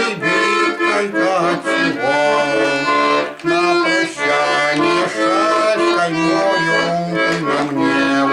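Bayan (Russian button accordion) playing a slow melody with held chords over bass notes, with a brief break about three and a half seconds in.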